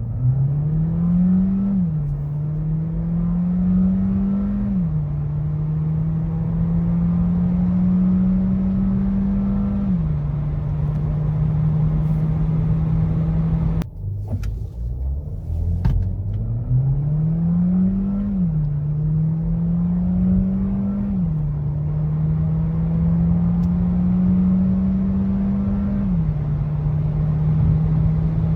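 Skoda Karoq's 1.5 TSI turbocharged four-cylinder petrol engine under hard acceleration through its DSG gearbox. The engine note climbs, drops quickly at each upshift and climbs again, with three shifts in a run. After a short break about halfway through, a second full-throttle run repeats the same pattern.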